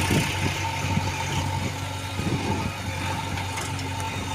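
Diesel engine of heavy machinery running steadily at idle, with a constant low hum.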